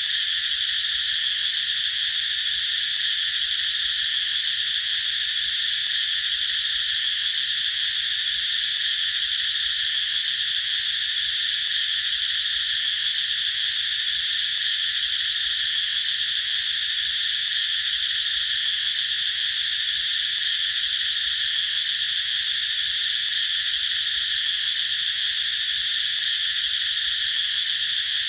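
Cicadas singing in a continuous chorus: a steady high buzz that holds without any break.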